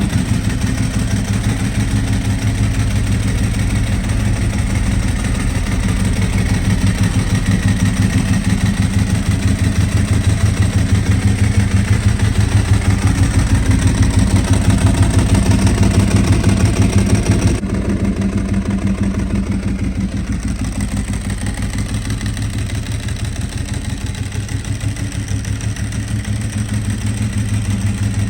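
Ducati 1098's 1099 cc L-twin engine idling with a steady, pulsing beat. The sound turns duller about two-thirds of the way through.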